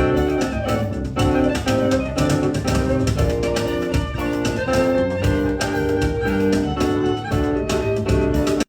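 Live band music: held chords over a strong bass and a steady beat. It cuts off abruptly at the very end.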